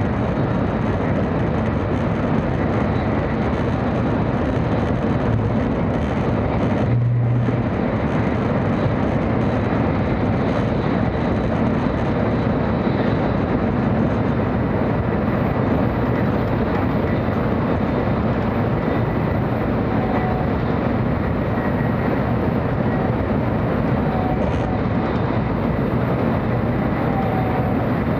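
Steady running noise of a 700-series Shinkansen train at speed, heard inside the passenger cabin: an even rumble and rush with no change in level.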